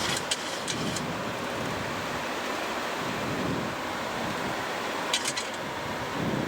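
Steady rushing of airflow and engine noise in a Boeing 737-700 flight deck on final approach, with the landing gear just lowered. A few short clicks come in the first second and again about five seconds in.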